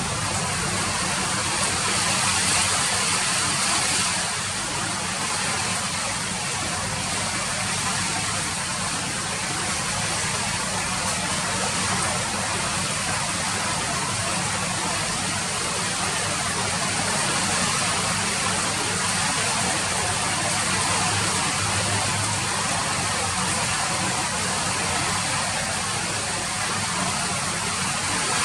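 Steady rain falling: an even hiss with no separate drops or breaks.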